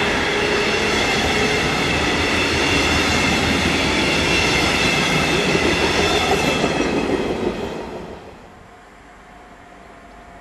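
A CFL double-deck passenger train running past at speed: a loud rush of steel wheels on rail with a steady high ringing. The sound fades away quickly about eight seconds in as the last coach goes by.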